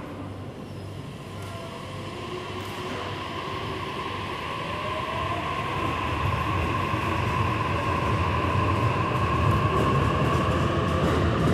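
Electric commuter train moving along a platform in a reverberant station hall, its low rumble and a high whine building steadily louder.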